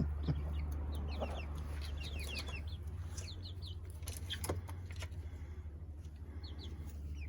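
Young chickens peeping and clucking, short high peeps that slide downward and come in quick runs, with a few light knocks and a low steady hum underneath.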